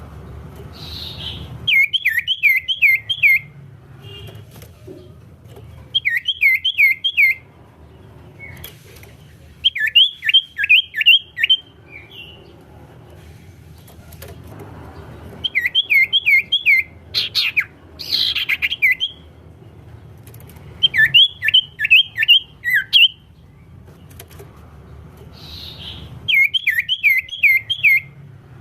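A songbird singing the same short phrase over and over: about five quick, downward-sliding notes in a row, repeated roughly every four seconds.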